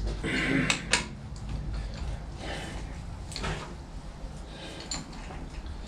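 Metal parts and tools being handled on a workbench: a few sharp clicks and knocks about a second in and again midway, with softer scraping between.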